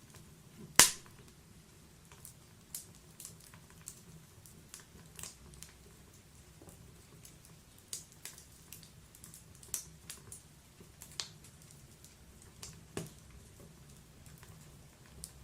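Wood fire in a log-burning fireplace crackling, with irregular snaps and pops. One loud pop comes just under a second in.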